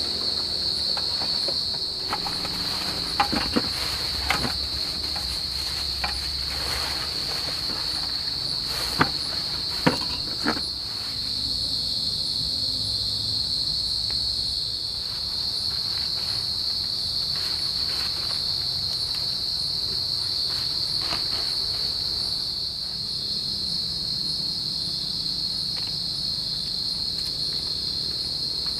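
Steady forest insect chorus: crickets chirring at one unbroken high pitch. A handful of sharp knocks sound over the first ten seconds or so.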